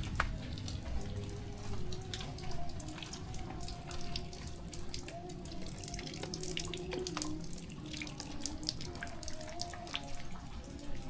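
Rainwater trickling and dripping after a downpour, with many small drips and splashes over a steady running-water sound.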